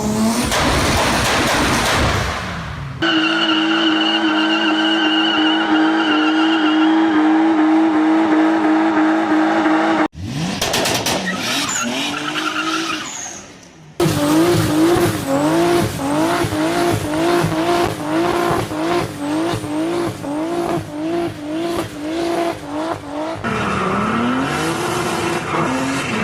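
BMW E30 M3's four-cylinder engine held at high revs through burnouts, with tires squealing and skidding. In one stretch the revs rise and fall over and over, about every 0.7 s.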